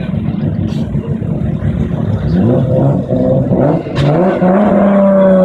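Car engine revving in several short rising blips, then held high from about four seconds in and easing slightly down near the end. A sharp crack sounds about four seconds in.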